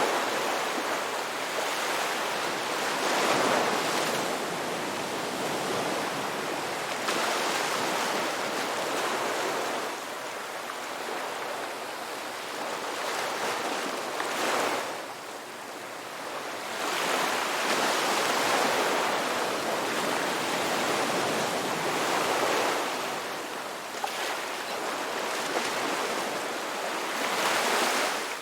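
Ocean surf: waves breaking one after another, the wash of each swelling and fading every few seconds.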